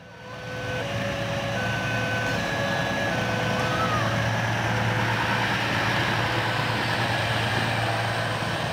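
Minangkabau Express airport train passing close by with a steady rumble. Over it, the level-crossing warning alarm sounds in repeated on-off tones.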